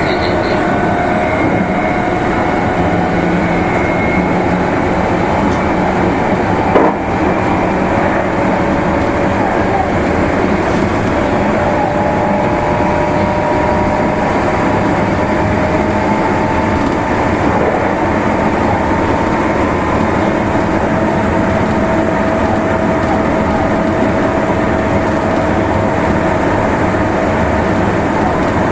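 Meitetsu Nagoya Main Line limited express train running, a steady rumble of wheels on rail with faint steady whines above it. There is a sharp knock about seven seconds in.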